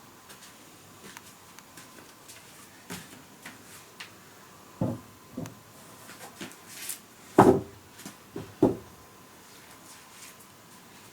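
Irregular knocks and clunks of objects being handled, with a few louder thuds in the middle of the stretch.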